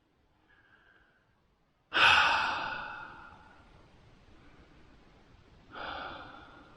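A man's deep exhaled sigh about two seconds in, starting suddenly and fading over about a second, followed by a second, softer breath out near the end.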